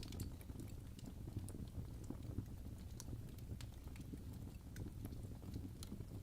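Crackling fire: irregular sharp pops and snaps of burning wood, several a second, over a steady low rumble.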